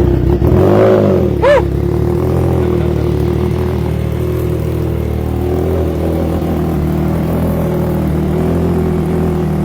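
Triumph Trident 660's three-cylinder engine through a full aftermarket exhaust with a Black Knight muffler, just started from cold: it rises and falls briefly in the first couple of seconds, then settles into a steady, deep idle.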